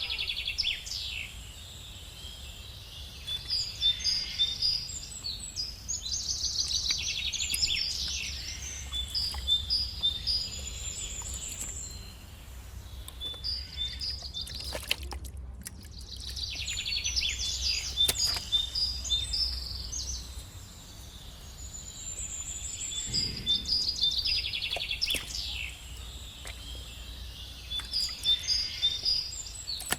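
Small birds chirping and trilling in repeated short bouts every few seconds, over a steady low hum.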